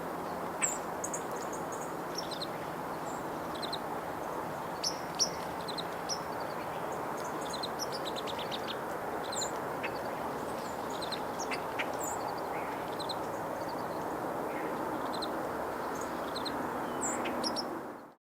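Small songbirds chirping, many short high calls scattered throughout over a steady rushing background, fading out just before the end.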